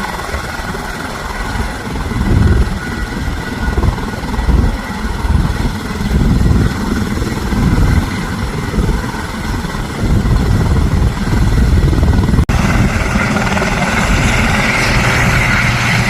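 Medical helicopter's rotor and turbine running during takeoff, heard with gusty low rumbling that rises and falls. About twelve seconds in the sound breaks off for an instant, and a brighter hiss then grows louder.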